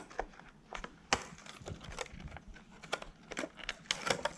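Irregular clicks and light crackles of a fishing lure's packaging being handled and opened, with a sharper click about a second in.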